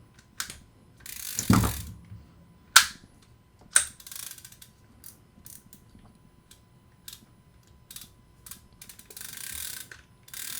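Pro Gear Violator V42 star drag fishing reel being handled and cranked, its handle giving an audible click as it turns. A few sharp knocks come in the first four seconds, and a brief hiss near the end.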